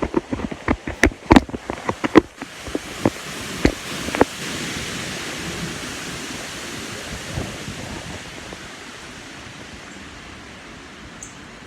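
Strong wind rushing, swelling about four seconds in and then slowly easing off. A rapid, irregular series of sharp knocks fills the first few seconds.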